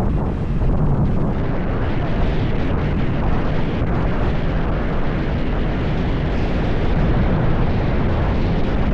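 Heavy wind rumble buffeting the microphone on a moving motorcycle, a steady loud rush that is strongest in the low end.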